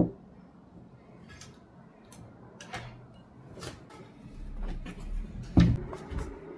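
Light taps and clicks of small objects being handled on a surface, with one louder knock near the end.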